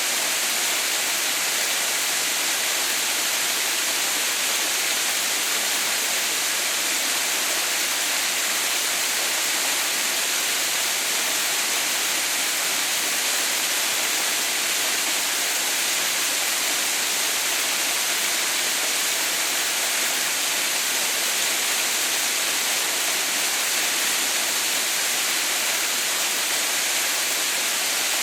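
Steady rush of falling water from the Haha no Shirataki waterfall, an unbroken hiss weighted to the high end with little low rumble, not changing over the whole stretch.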